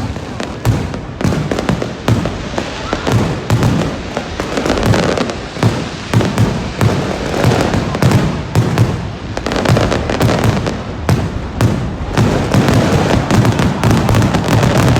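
Fireworks going off without pause: a dense stream of overlapping bangs and pops with a continuous rumble beneath.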